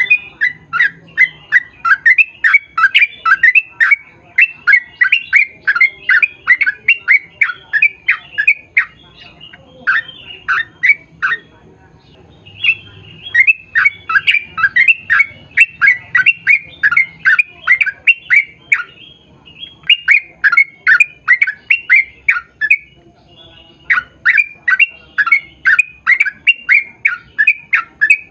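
Yellow-vented bulbul (trucukan) singing its long rapid-fire song: quick runs of short, falling, chattering notes, about four or five a second, in bouts of several seconds with brief pauses between.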